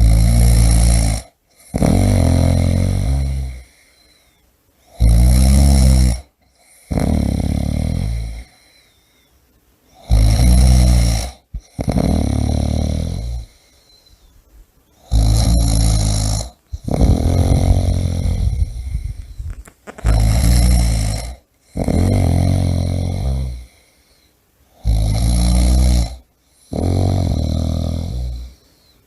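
A person snoring in a steady rhythm: each breath brings a short, loud, rattling snore and then a longer second snore right after it. The pair repeats about every five seconds, with quiet pauses between.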